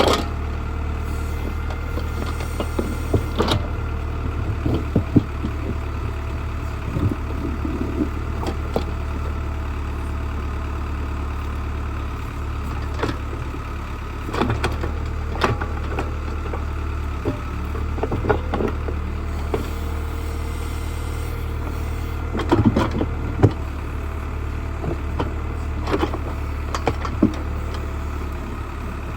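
Old tractor backhoe's engine running steadily, with scattered short knocks and clatters from the digging work.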